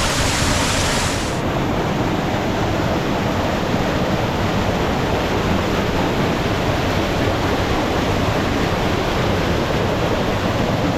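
Waterfall swollen by heavy rain, pouring in a loud, steady rush.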